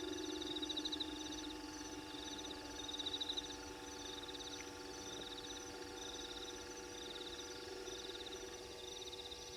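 Night-time chorus of calling insects: high pulsed trills repeating every second or two over a steady low hum.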